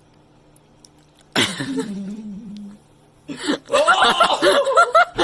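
A voice: a long cry about a second and a half in that drops in pitch and then holds, followed near the end by quick rising-and-falling cries like laughter.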